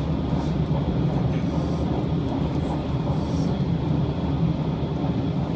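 Steady low rumble of a limited express train running at speed, heard from inside the passenger car.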